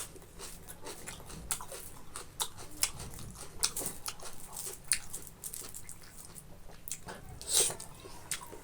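Close-miked chewing of boiled pork belly and rice: irregular wet mouth clicks and smacks, with a louder smack near the end.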